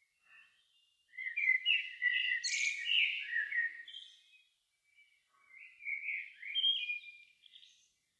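A songbird singing two phrases of varied whistled notes: a long, loud phrase starting about a second in, then a shorter one about five and a half seconds in.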